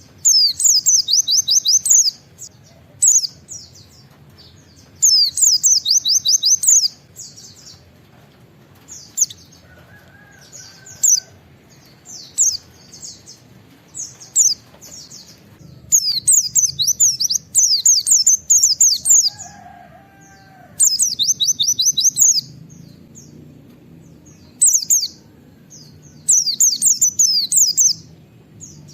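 White-eye (pleci) singing in about a dozen short bursts of rapid, high 'wit wit' notes, with brief pauses between the phrases.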